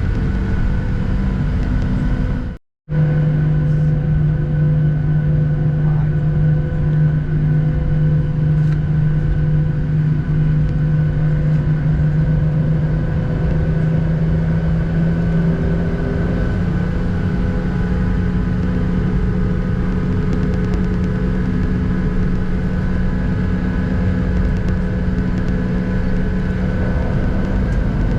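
CFM56 turbofan engines of a Boeing 737-800 running at taxi power, heard inside the cabin as a steady drone with a low hum and higher whining tones. The sound drops out for a moment about three seconds in, and the hum steps up slightly in pitch about halfway through.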